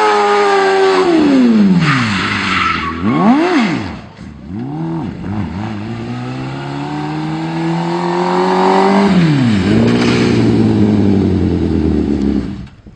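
Turbocharged Suzuki Hayabusa inline-four motorcycle engine in a Smart car, revving hard. Its pitch falls steeply about a second in, with a short burst of hiss, then quick up-and-down blips. It climbs in one long rising run and drops back near the end.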